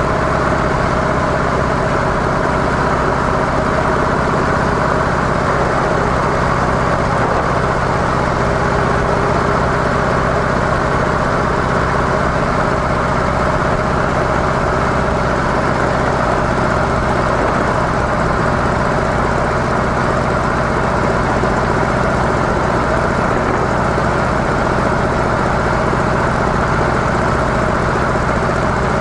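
Harley-Davidson CVO Softail Deluxe's air-cooled Twin Cam 110 V-twin with its stock mufflers, running steadily at an even engine speed.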